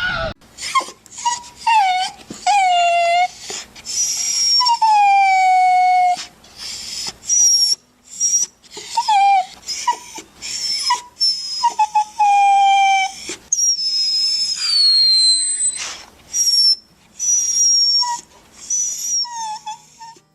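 Dog whining and yelping: a run of short calls, many falling in pitch, with some longer drawn-out whines and high thin whistling tones among them.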